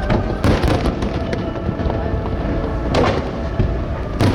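Fireworks shells bursting in sharp bangs over a steady background din: a cluster in the first second, another about three seconds in, and one near the end.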